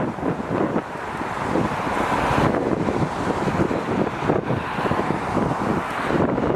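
Wind buffeting the microphone in gusts over the steady rush of jet aircraft engine noise, swelling a little about two seconds in.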